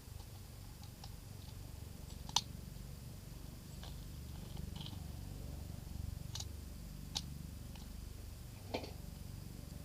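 Small sharp clicks, about one a second and irregular, the loudest about two and a half seconds in, over a low steady rumble: .22 rimfire cartridges being pressed one by one into the USFA Zip 22's magazine.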